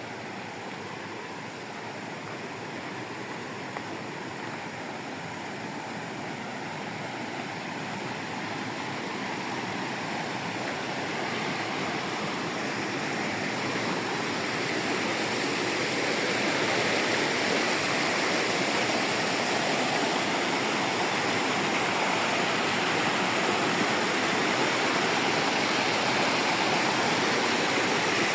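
Rushing mountain water: a steady, dense wash of white water that grows gradually louder.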